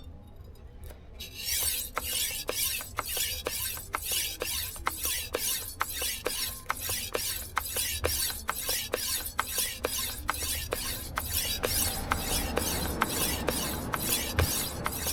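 Steel knife blade stroked repeatedly across a whetstone, an even run of gritty scrapes at about two and a half strokes a second, starting about a second in.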